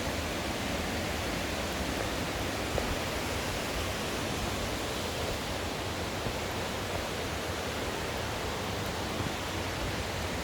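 Steady rushing of a mountain stream and waterfall, even and unbroken.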